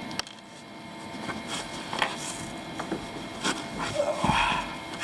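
Scattered knocks, bumps and rustles of a person shifting about and climbing out of a kayak, with a short rising groan-like sound about four seconds in.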